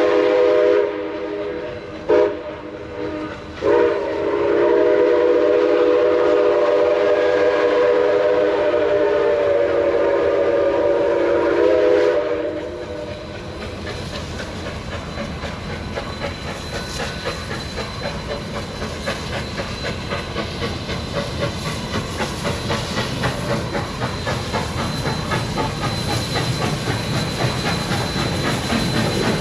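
Steam locomotive's chime whistle blowing a multi-note chord: a blast ending about a second in, two short toots, then a long blast of about nine seconds. After the whistle stops, the train rolls past with a steady run of rhythmic wheel clicks over the rail joints.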